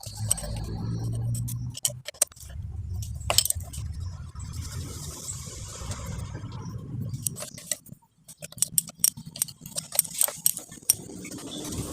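Metal clinks and clicks of hand tools and engine parts being handled during cylinder-head reassembly, over a low steady rumble through most of the first eight seconds; a quick run of sharp clicks follows near the end.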